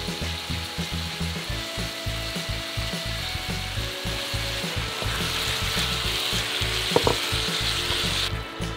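Cubed pork sizzling as it sautés with onion, garlic and ginger in a frying pan, over background music with a steady beat. There is a sharp click about seven seconds in, and the sizzle cuts off suddenly near the end.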